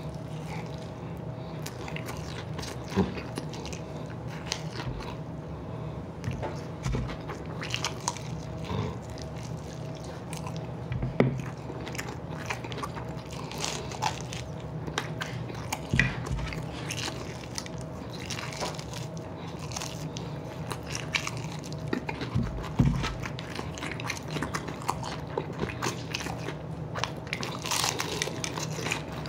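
A person biting and chewing whole chicken wings, with frequent small irregular clicks and crunches, over a faint steady hum.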